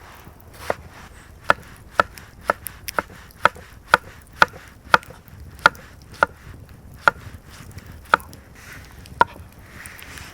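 A blade chopping against wood in a series of sharp knocks, about two a second, slowing and spacing out toward the end.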